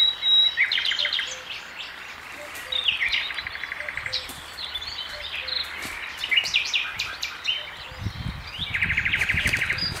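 Several songbirds singing together in a forest chorus: chirps and whistles, with rapid trilled phrases about a second in, around three to four seconds, and near the end. A low rumble comes in about eight seconds in.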